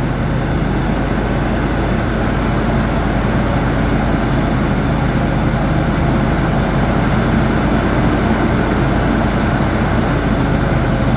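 Ford SVT Lightning's supercharged V8 idling steadily just after a cold start. No distinct slap or knock stands out; the engine sounds great.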